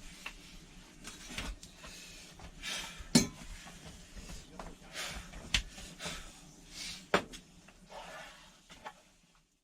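Irregular handling noise: a few sharp clinks or knocks of hard objects between soft swishing rubs.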